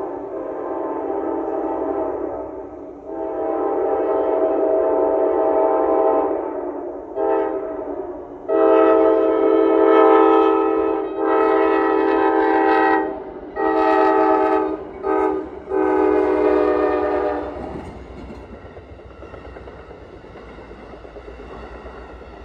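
Amtrak Vermonter locomotive horn sounding a run of long and short blasts, the first four long, long, short, long as for a grade crossing. The horn stops near the end and the train rumbles past.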